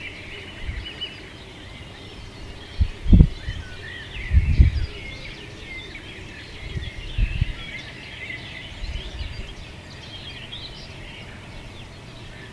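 Many small birds chirping and twittering at once in an outdoor ambience, with several low thumps or rumbles: about three seconds in, again at about four and a half seconds, and a softer pair around seven seconds.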